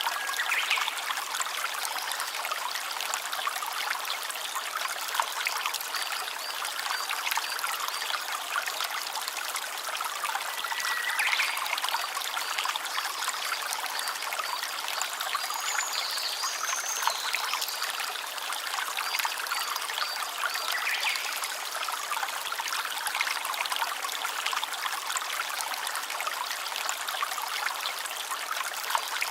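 Stream water running and trickling steadily, a dense patter of small splashes.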